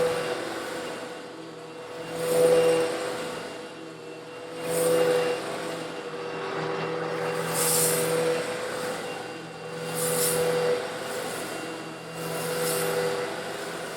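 Old Eureka vacuum cleaner running steadily while sucking up coarse stone granules, its motor hum swelling about every two to three seconds with a gritty hiss as the granules are drawn in.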